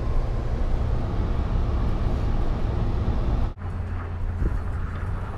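Snowplow truck engine running steadily with a low rumble. It breaks off abruptly about three and a half seconds in and then resumes.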